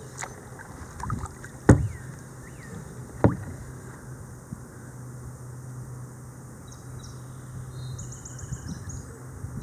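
Kayak drifting on a creek: two sharp knocks, about a second and a half apart, of the paddle against the kayak, over a steady low hum. A few faint high chirps come near the end.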